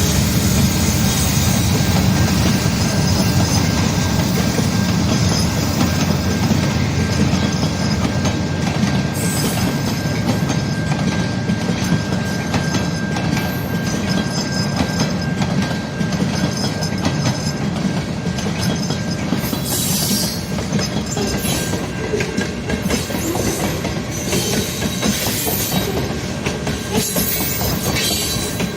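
Canadian National mixed-freight train rolling past, its wheels clacking over the rail joints, with a thin steady squeal through the first half.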